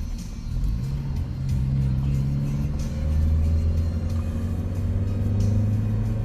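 Motor vehicle engine running with a steady low hum that shifts in pitch a couple of times, with music playing along with it.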